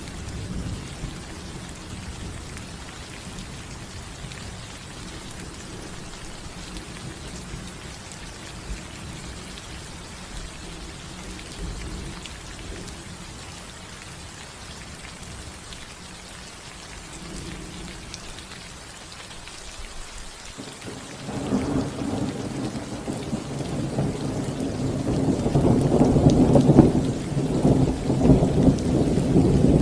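Steady rain falling on a roof, with thunder: a long rolling rumble builds about two-thirds of the way in and is loudest near the end.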